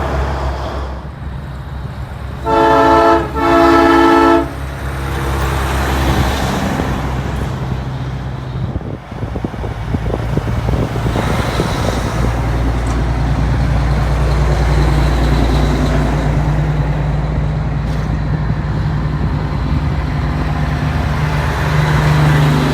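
Semi truck air horn blown twice, the second blast longer, over the low rumble of big-rig diesel engines. The engine sound swells about halfway through as a truck pulls past.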